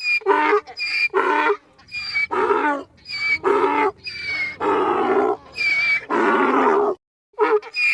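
Donkey braying: a long run of rhythmic hee-haw calls that breaks off about seven seconds in.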